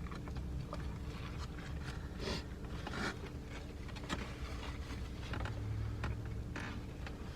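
Eating sounds inside a car: short rustles, crinkles and scrapes of food wrappers and containers with small clicks, several times, over a low steady hum.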